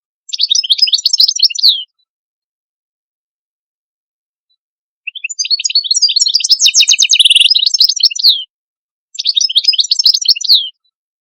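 A songbird singing three phrases of rapid chirps, trills and falling whistles. The middle phrase is the longest, with a fast even trill in it. Between phrases the sound drops to complete silence.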